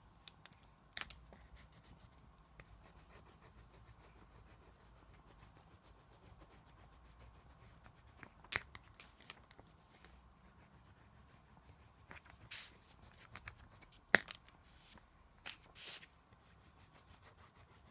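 Crayon rubbing back and forth on paper while colouring in, a faint rapid scratching, with a few sharp taps here and there, the loudest about 14 seconds in.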